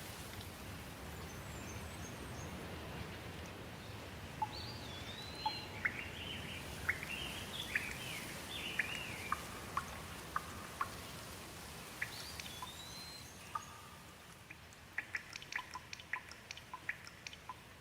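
Steady rain with birds chirping over it in short, arching calls. Near the end the rain thins and scattered water drops tick.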